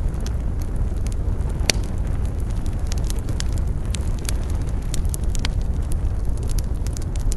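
Campfire burning, wood crackling with irregular sharp snaps and one louder pop a little under two seconds in, over a steady low rumble.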